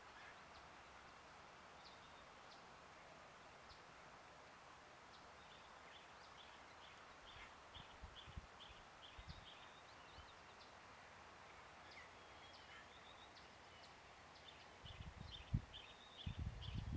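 Faint bush ambience with a bird chirping in quick series of short, high notes, about three a second, in the middle and again near the end. A few low bumps come near the end.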